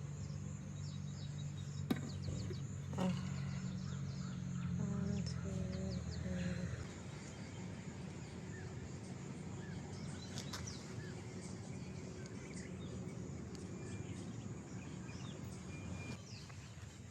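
Birds chirping over steady outdoor background noise, with a low hum underneath that stops about seven seconds in. Two sharp clicks come about two and three seconds in.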